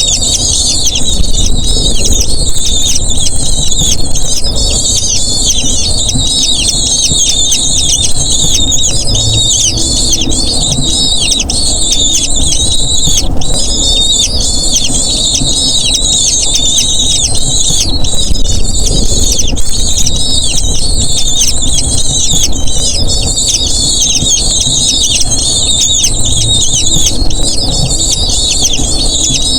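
Eagle chicks' shrill begging calls, a dense run of rapid high-pitched cries that carries on without a break.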